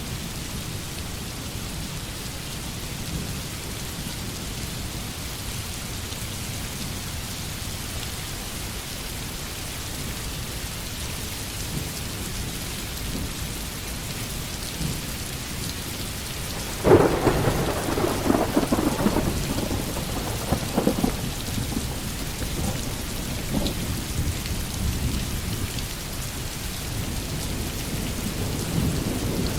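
Heavy rain falling as a steady hiss. About halfway through a sudden crack of thunder breaks in and rumbles on for a few seconds, with weaker rumbles after it.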